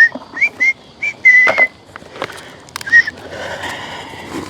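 A run of short, clear whistled notes, each rising then falling, with one held longer about a second and a half in and a last one near three seconds. A steady rushing noise follows.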